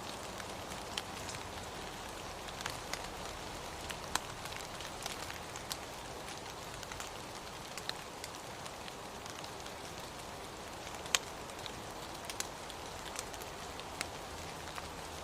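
Steady rain, with individual drops landing close by as irregular sharp taps over an even hiss.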